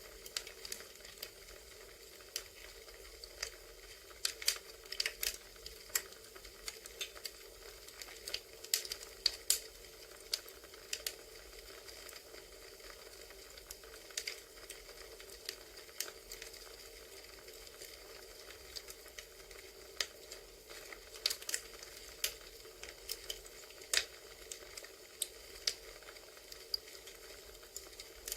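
Recorded campfire ambience: burning wood crackling with irregular pops and snaps over a steady soft hiss.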